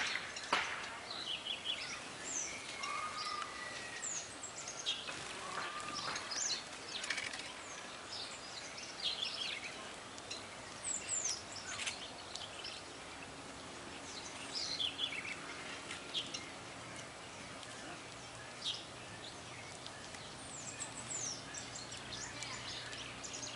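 Several small songbirds chirping and calling in short, scattered phrases of quick high notes, over outdoor background noise, with a faint steady low hum coming in about halfway through.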